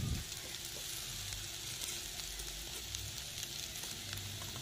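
Onion and spice masala sizzling in oil in a kadai: a steady, soft hiss with a few faint crackles.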